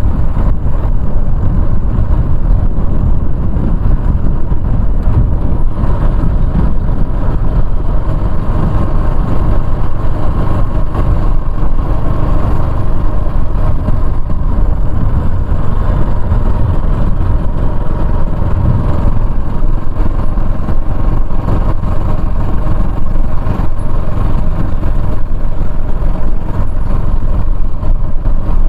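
Motorcycle riding along at a steady pace, its engine running under a heavy, steady wind rumble on the microphone.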